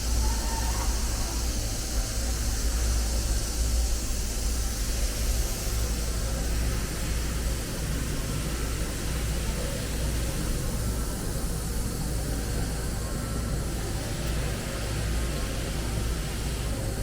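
A powered-up OKK HM500S CNC horizontal mill running: a steady low hum under a constant hiss.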